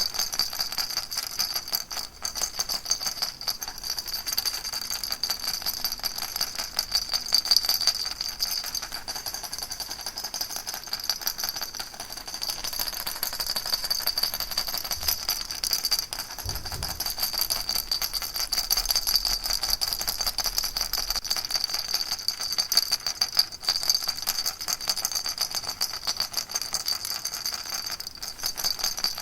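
Baby rattle shaken steadily without pause, a fast, even rattling.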